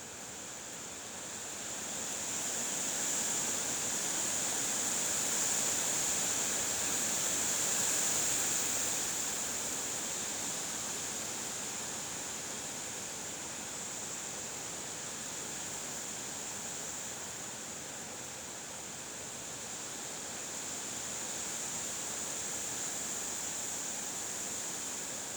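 Wind blowing: a steady rushing hiss that grows louder over the first few seconds, peaks around eight seconds in, then eases a little, with a thin high hiss running steadily above it.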